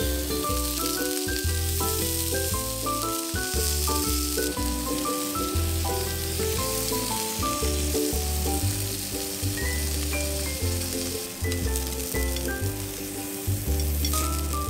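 Food sizzling in a frying pan, a steady hiss, with background music (a melody of short notes over a bass line) playing throughout.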